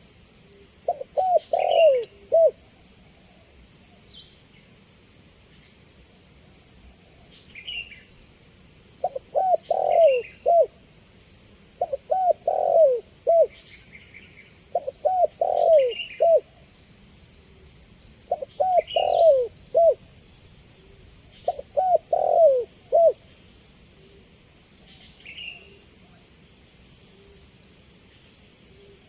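Spotted dove (tekukur) cooing: six phrases of several quick low coos each, about every three seconds, with a pause of several seconds early on. Short faint high chirps from another bird fall between the phrases, over a steady high hiss.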